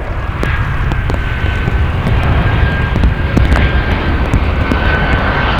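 Jet airliner engines running, a deep steady rumble with a thin high whine held on one pitch, and scattered sharp ticks over it.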